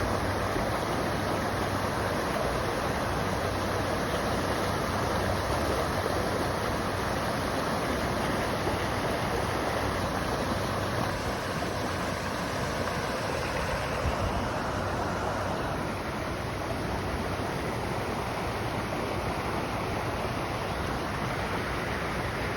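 River water rushing, a steady unbroken rush.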